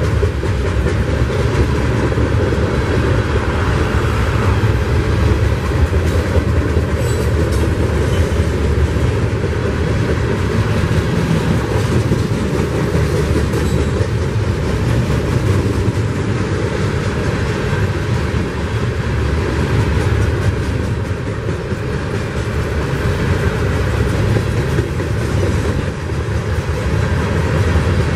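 Herzog ballast hopper cars of a freight train rolling past at close range, a loud steady noise of steel wheels running on the rails.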